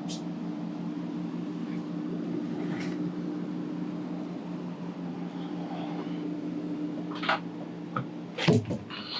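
A steady low mechanical hum, like a running fan or machine, with a few sharp knocks and a clatter from demolition work inside the coach near the end, the loudest about eight and a half seconds in.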